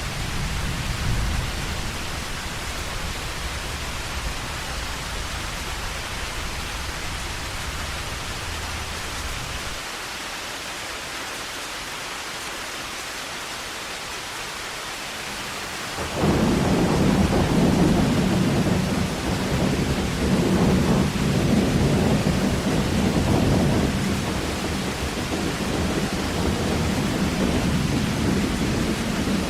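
Heavy rain falling steadily, with rolling thunder. A low rumble fades out about a third of the way in. Just past halfway a loud thunderclap breaks in suddenly and rumbles on in waves to the end.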